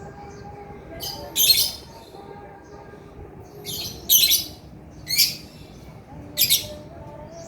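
Male lovebird calling in four short bursts of shrill, harsh squawking spread over several seconds.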